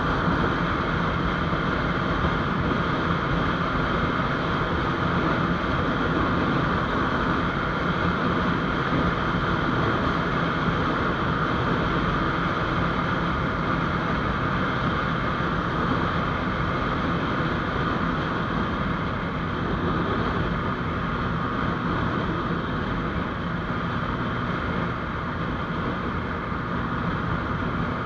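GPX Demon GR200R motorcycle running steadily at riding speed, its engine hum mixed with a constant rush of wind over the microphone.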